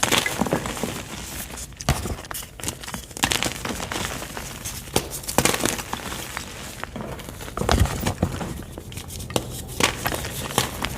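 Block of white gym chalk being crushed, giving a run of soft, irregular crunches and crackles.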